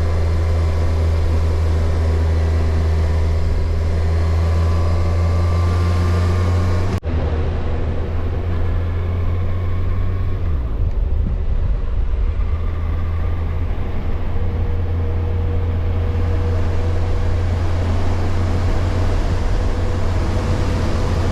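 Kawasaki Versys motorcycle riding at a steady speed: a loud, steady engine drone with wind and road noise, broken briefly about seven seconds in.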